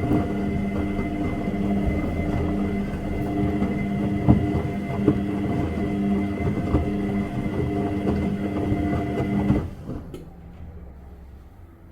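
Washing machine running with a steady motor hum and a few knocks. About ten seconds in the hum cuts off suddenly, leaving a quieter rumble that fades away.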